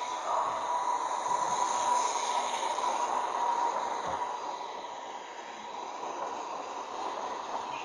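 Train moving in a station: a steady rushing noise with a thin, steady whine running through it, loudest in the first few seconds and easing off after that.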